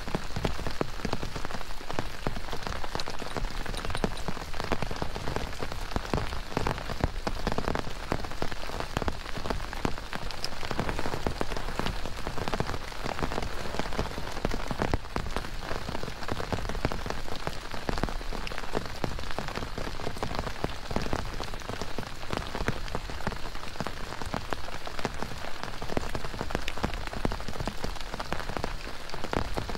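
Steady rain falling on a surface, a dense, even patter of many small drops.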